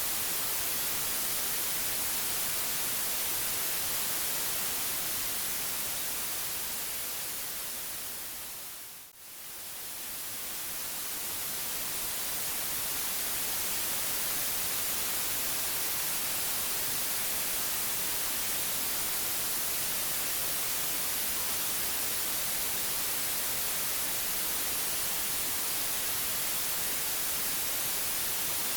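Steady white noise hiss, strongest in the high treble. It fades smoothly down to a brief near-silent dip about nine seconds in, then swells back up to full level over the next few seconds.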